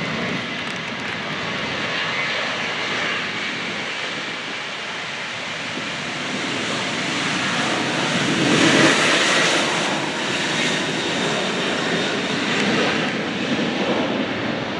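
A fixed-wing airplane's engines passing, swelling to their loudest about nine seconds in and then easing off a little.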